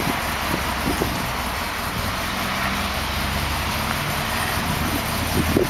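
1969 Dodge Charger Daytona's V8 engine idling steadily.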